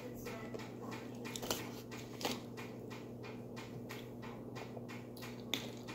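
Chewing crunchy cucumber slices: soft, regular crunches about three a second over a low steady hum, with sips of water from a plastic bottle near the end.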